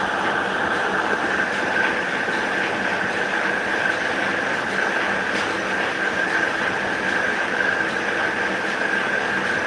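Electric paper cutting machine (guillotine cutter) running steadily, a machine hum with a constant high-pitched whine and a few faint clicks.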